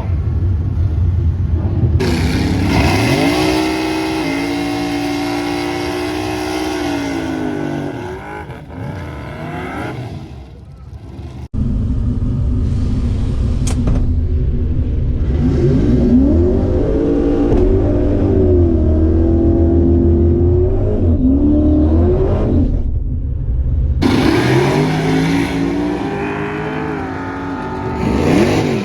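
Drag race car engines running and revving, the pitch rising and falling, with the sound changing abruptly several times.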